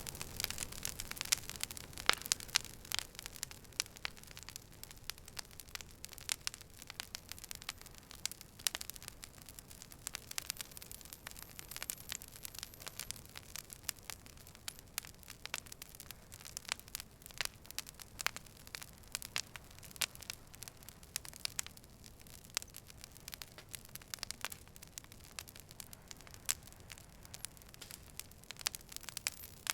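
Wood fire crackling: irregular sharp pops and snaps over a soft hiss, busiest in the first few seconds.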